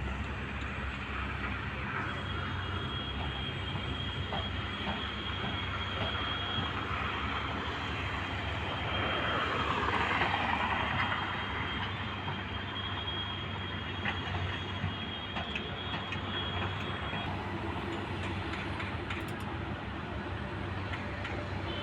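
Heavy diesel construction machinery, an excavator at work, running steadily with a constant low hum and scattered clanks. A steady high whine comes in about two seconds in and stops around seventeen seconds, and the sound swells louder around ten seconds in.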